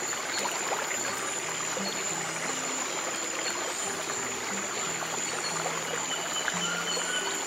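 A stream of water running and trickling steadily, with slow, soft low piano notes underneath and a steady high-pitched tone.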